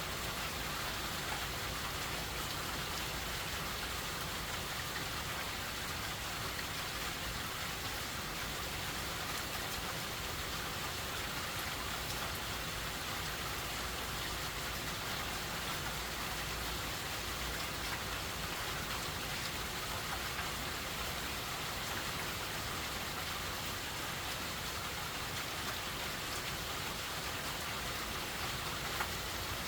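Steady rain from a hurricane, falling as an even, unbroken hiss of drops on surfaces.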